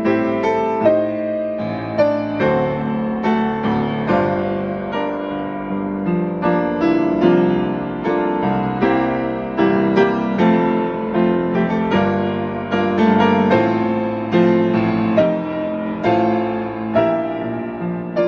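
Solo piano playing a hymn accompaniment without vocals: chords and melody struck in a gentle, regular pulse.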